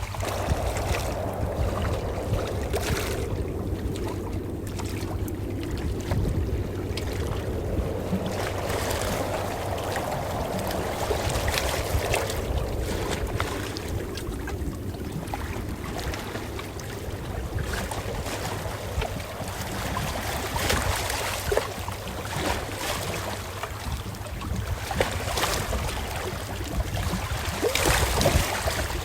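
Calm ocean waves washing in a continuous wash over a low rumble, swelling and easing as each wave comes in, with sharper splashes near the end.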